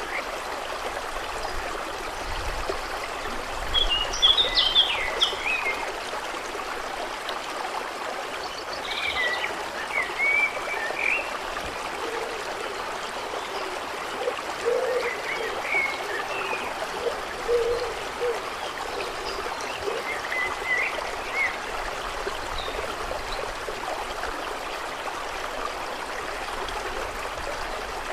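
Steady flow of water, trickling and lapping without a break. Short bursts of bird chirps come over it four times, with a few short low calls in the middle.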